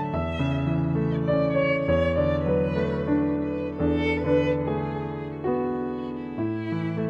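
Slow instrumental music: a violin melody over sustained low chords that change every couple of seconds.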